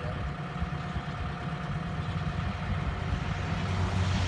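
Diesel engine of heavy machinery idling steadily, growing a little louder near the end.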